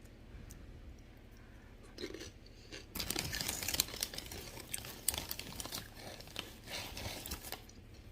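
Close-up crunching and chewing of corn chips. It starts about three seconds in and runs for several seconds as a dense crackle.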